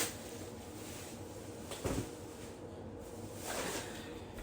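Groceries being handled during unpacking: soft rustling, with one short knock about two seconds in, like an item being set down.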